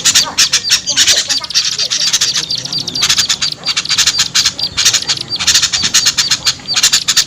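Bird-lure recording of small songbirds in agitated, noisy chatter: rapid harsh chips and short calls in quick clusters, a mixed call track played to draw small birds down.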